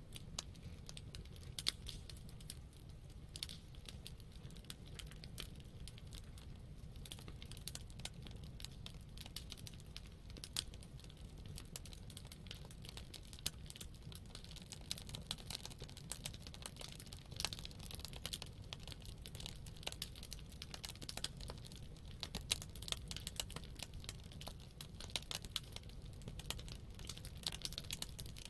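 Wood campfire crackling, with dense irregular sharp pops and snaps over a low steady rumble.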